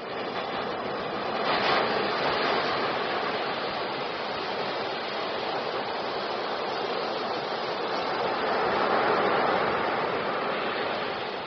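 Steady rushing noise of moving water, swelling about two seconds in and again around nine seconds.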